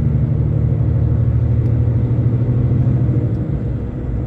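Truck cab interior while driving: a steady low diesel engine drone with road noise, easing slightly near the end.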